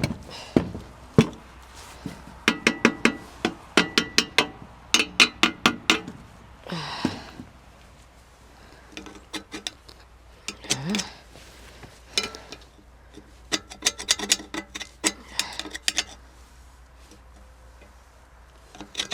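Metal clinking and tapping in clusters of quick sharp strikes, with quiet gaps between: tools and metal parts knocking together while the mitre box is being taken apart.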